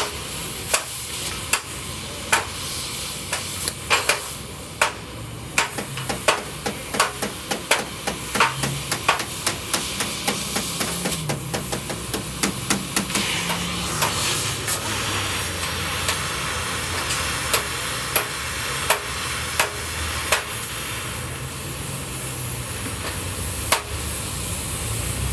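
Hammer striking sheet metal in irregular blows, close together at first and sparser later, over a steady hiss.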